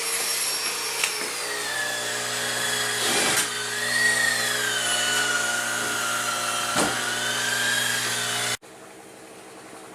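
An electric motor, like a vacuum or power tool, running steadily with a whine that drifts slowly up and down in pitch, and two short knocks. It cuts off abruptly about eight and a half seconds in, leaving a much quieter steady hum.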